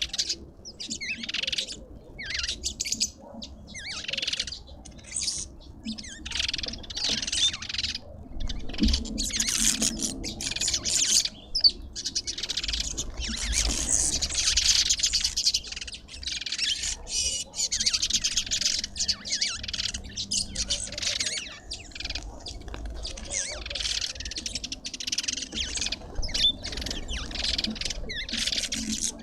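Garden birds chirping and twittering in a dense stream of short, overlapping high calls.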